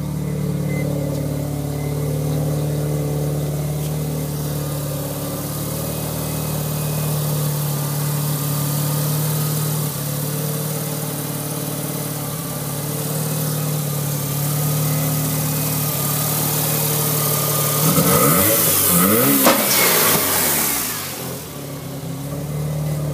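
Mazda RX-7 FD3S 13B twin-rotor rotary engine with a Borg Warner S366 single turbo, idling steadily. About eighteen seconds in it is revved once, the pitch rising and then falling back to idle within about three seconds.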